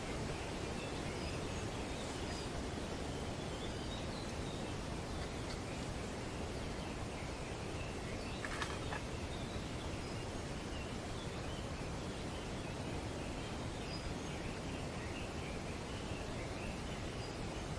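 Steady rush of wind through tree foliage, with birds chirping in the leaves off and on and a louder, briefer burst of calls about halfway through.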